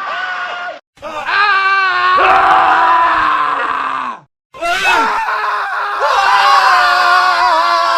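Men screaming, one separate scream after another with brief silent cuts between them. A short scream ends about a second in. A long, wavering scream follows and sinks in pitch before cutting off about four seconds in, and then more screams run on without a break.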